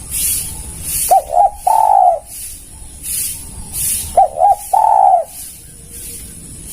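Spotted dove cooing loudly: two phrases about three seconds apart, each two short notes followed by one long drawn note. Fainter coos from another dove are heard between them, over a high pulsing hiss that repeats a little more than once a second.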